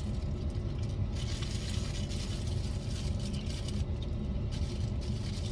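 Steady low rumble of a car heard from inside the cabin, the engine and road noise of driving.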